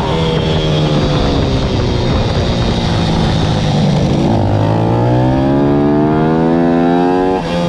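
Pit bike's single-cylinder 160 cc four-stroke engine running hard. The note drops at the start, then climbs steadily from about halfway as it accelerates, and falls sharply near the end on a gear change.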